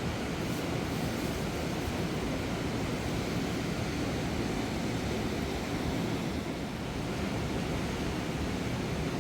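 Fast mountain river rushing over rocks: a steady, dense rush of water.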